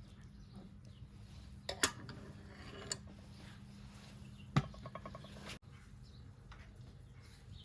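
Kitchenware clinking: a few separate sharp knocks, the loudest about four and a half seconds in with a brief ringing rattle after it, over a steady low hum.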